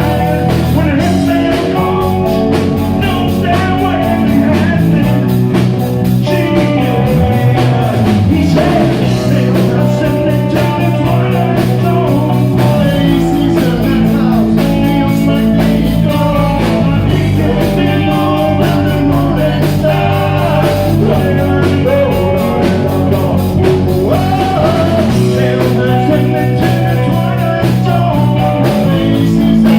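Rock band playing live, with electric guitar, bass and drums; a low note slides up and back down about seven seconds in.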